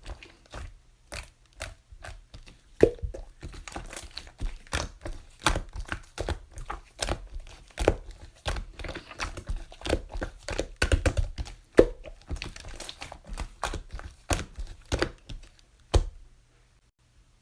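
Hand-played slime: irregular sharp pops, clicks and crackles as it is squeezed and pressed, stopping shortly before the end.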